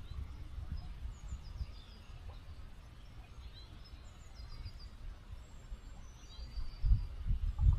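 Small birds chirping in short quick runs of high notes every few seconds over the faint steady hiss of a small flowing stream. A low uneven rumble rises at the start and again near the end.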